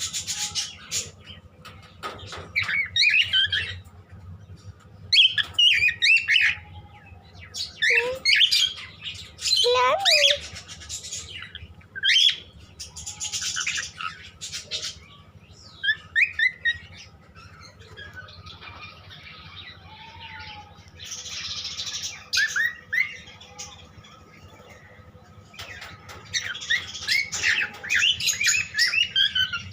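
Pet cockatiels chirping and whistling in clusters of short calls, with quieter gaps between them and the calling busiest near the end.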